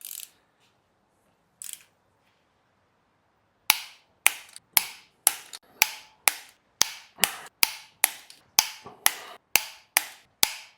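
Sharp, evenly spaced taps or knocks, about two a second, starting about four seconds in after a few seconds of near quiet with a couple of faint clicks.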